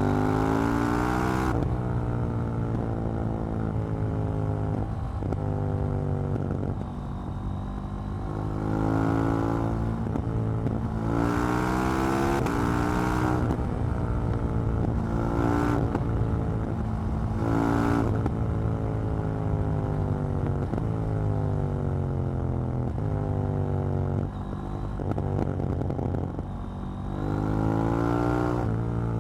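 KTM 790 Duke motorcycle's parallel-twin engine and exhaust while riding: several bursts of acceleration where the engine pitch rises, each followed by long stretches where the pitch falls away as it slows on the overrun. Wind rush rises with each acceleration.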